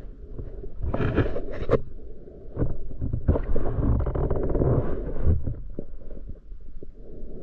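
Muffled water gurgling and sloshing around an action camera's housing during a spearfishing dive, broken by many small knocks and clicks.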